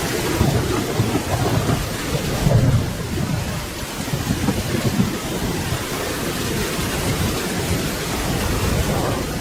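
Steady rain with a low rumble of thunder that swells to its loudest about two and a half seconds in and fades out by about five seconds.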